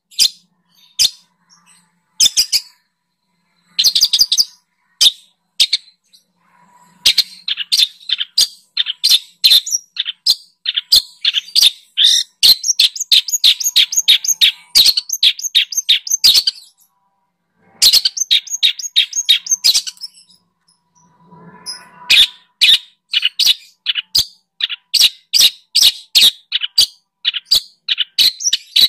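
Songbird chirping in rapid runs of sharp, high notes, several a second, broken by a few short pauses: bird-song material of the kind used as masteran to teach a caged long-tailed shrike.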